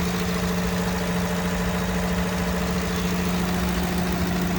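2022 Ford F-150's 5.0-litre Coyote V8 idling steadily.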